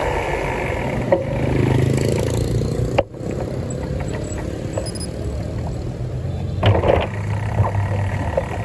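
Vehicle engine running with steady road and wind noise, broken by a few brief knocks.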